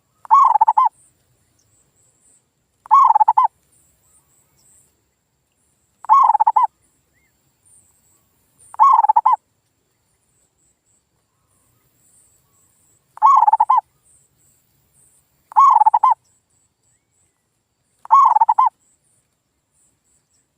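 Male zebra dove (perkutut) cooing: seven short coo phrases, each under a second, spaced a few seconds apart. Faint high chirping sounds between them.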